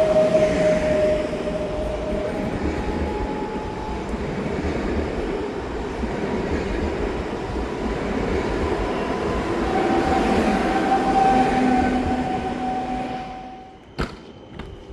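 A train moving through the station, a steady rumble with a couple of held whining tones on top. The sound drops away sharply near the end, followed by a few sharp clicks.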